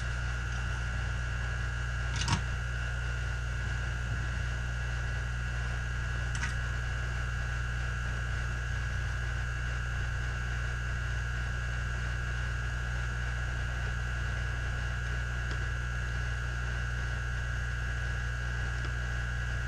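Steady low hum with a thin high whine, from a small fan or bench equipment running, with one sharp click about two seconds in and a fainter tick around six seconds.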